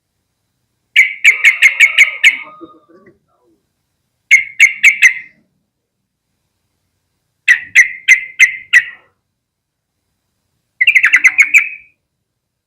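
Yellow-vented bulbul calling: four bouts of sharp, rapid chattering notes, each about a second long and a few seconds apart.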